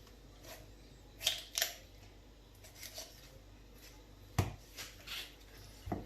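Knife cutting into a raw whole chicken: scattered short clicks and taps, with one sharper knock a little over four seconds in.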